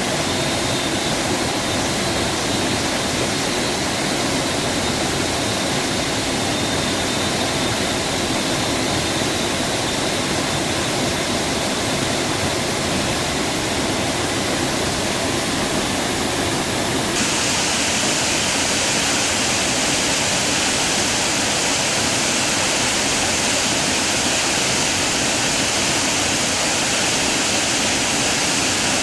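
Waterfall water rushing steadily. About two-thirds of the way through, the sound changes abruptly and becomes hissier.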